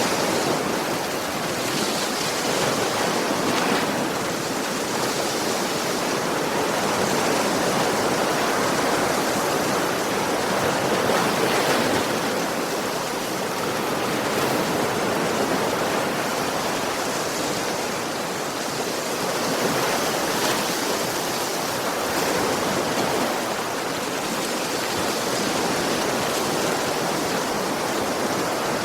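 Sea waves washing onto a beach, a continuous rushing surf that swells and eases every few seconds.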